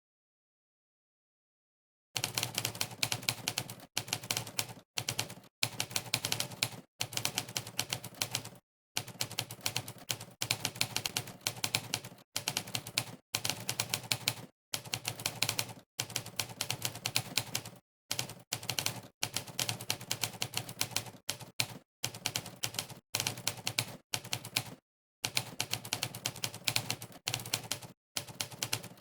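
Monkeytype's typewriter keystroke sound effect, one sharp typewriter-like clack per key pressed, in fast runs of typing broken by short pauses. Dead silent for the first two seconds.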